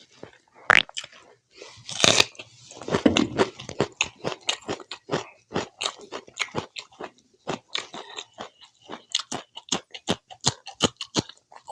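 Close-up chewing of spicy pork curry and rice: wet, crunchy bites and mouth clicks at about three a second. There is a short rising squeak about a second in and a louder crunch about two seconds in.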